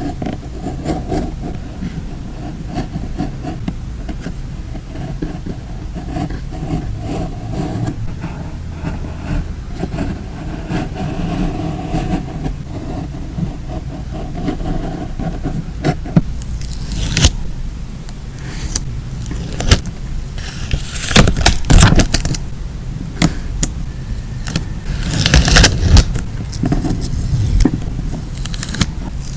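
Paper and stickers being rubbed and handled on a journal page: a steady rubbing scrape for about half the time, then irregular sharp crackles and taps of paper.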